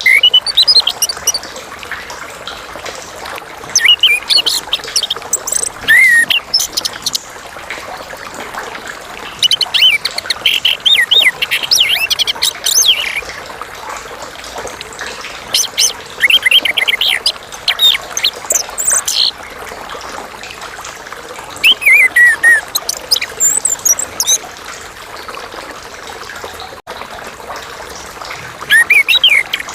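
Chestnut-capped thrush singing: about seven loud bursts of rapid, varied high whistled phrases, each one to three seconds long and a few seconds apart. Underneath is a steady trickling-water hiss.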